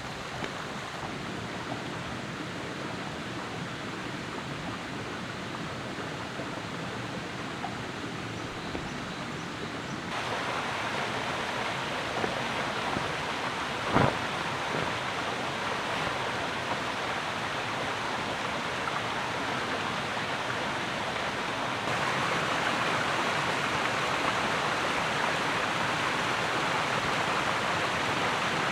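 Steady rushing outdoor noise with no pitch to it, growing louder in two abrupt steps, with one sharp knock about halfway through.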